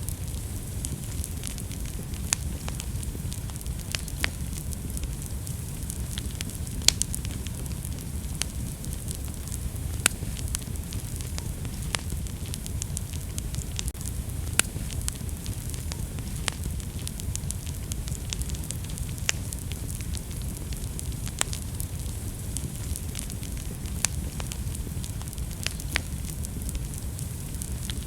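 Wood fire burning in a fireplace: a steady low rumble and hiss, with sharp crackles and pops at irregular intervals.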